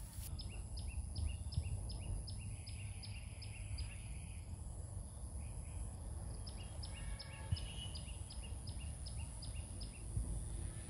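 A bird calling a quick series of short falling notes, about four a second, in two runs of a few seconds each. Under it is a steady low rumble of outdoor noise and a thin, steady high hum.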